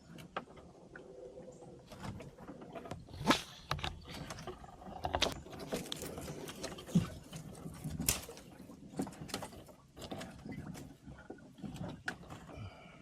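Irregular knocks, clunks and scrapes of gear being moved around in a small one-man boat, with a few sharper knocks standing out, the loudest about three seconds in and again about eight seconds in.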